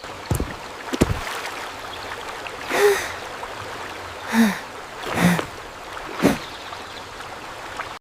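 Steady hiss like running water, with two soft knocks in the first second and then four short breathy gasps, each with a brief low pitched note.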